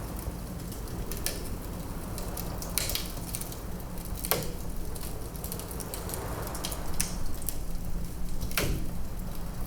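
Wood fire crackling in a fireplace: a steady low rush of burning with several sharp pops and snaps from the logs, a second or two apart.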